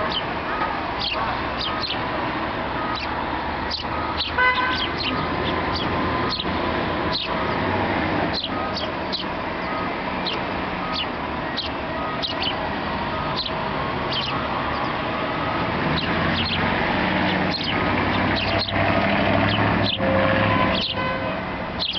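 Many birds chirping, with short falling calls coming thick and fast, over a steady background hum of traffic.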